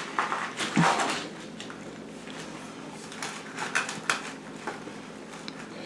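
Irregular scrapes and clinks of a metal tool working against broken concrete as a slab of basement floor is pried at, with a busier cluster near the start and another about three to four seconds in.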